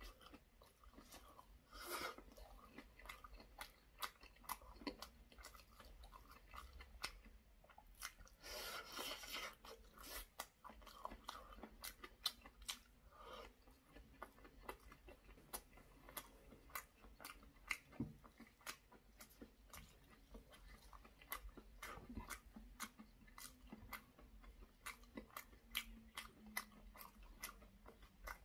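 Faint, close-miked chewing of soft braised potato and fish: a steady run of small wet mouth clicks and smacks, with louder bites about 2 s and 9 s in.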